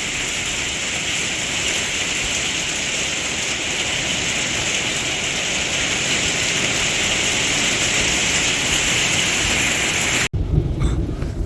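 Torrential rain pouring steadily in a thunderstorm, a dense even hiss. About ten seconds in it cuts off suddenly, and a low rumble follows.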